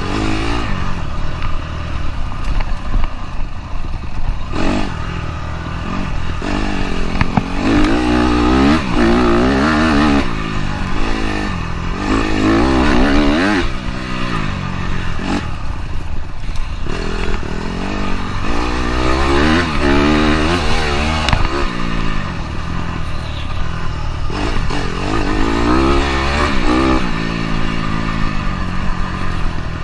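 Dirt bike engine running under throttle, its pitch climbing and dropping several times as the rider opens up and backs off, over a steady clatter and rattle.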